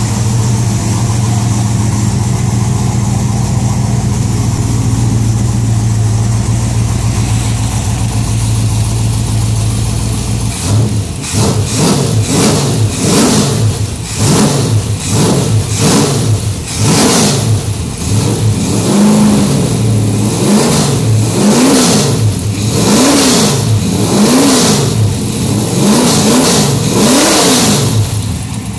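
GM 602 crate engine, a carbureted 350 cubic inch small-block V8, idling steadily, then from about ten seconds in blipped again and again by hand at the carburetor throttle linkage, each rev rising and falling, about one a second. It settles back to idle near the end.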